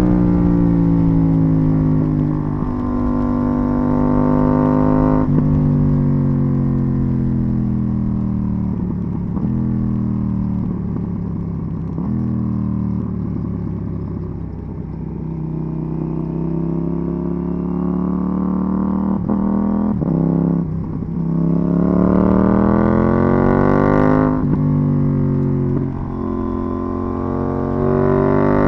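KTM 790 Duke's parallel-twin engine through an IXRace MK2 exhaust while riding. The revs hold high, ease down in a long falling slowdown, then climb hard again, with a couple of quick upshifts near the end.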